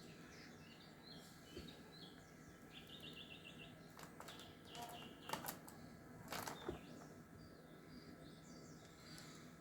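Parrot chirping softly, with a quick run of short repeated notes and a few sharper calls in the middle.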